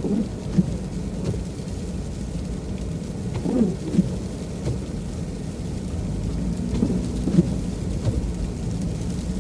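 Steady low rumble of a truck driving on an icy road, heard from inside the cab, with freezing rain and ice pellets hitting the vehicle. The windshield wipers sweep a few times, making short squeaks.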